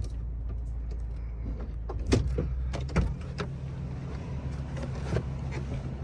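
Ford 6.8-litre V10 gas engine idling steadily, with a few sharp knocks and clicks over it. About two seconds in, the low drone changes to a slightly higher hum.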